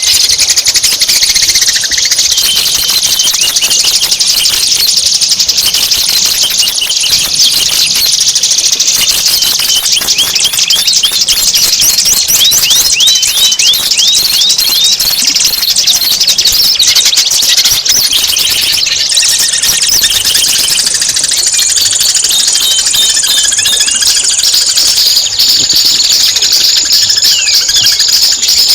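Songbird singing a continuous, rapid, high-pitched song of fast chattering notes with quick up-and-down whistled glides.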